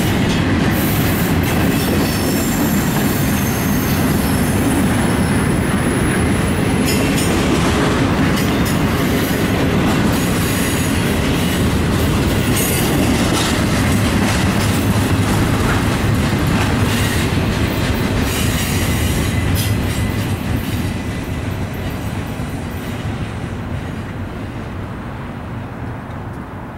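Double-stack intermodal freight train rolling past close by: a steady rumble of steel wheels on rail with scattered clicks and a thin high wheel squeal in the first few seconds. After about twenty seconds the sound fades as the last cars pull away.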